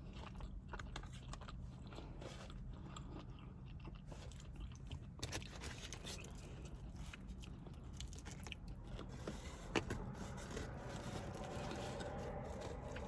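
A person chewing and biting food close to the microphone, with many small irregular wet mouth clicks and crunches.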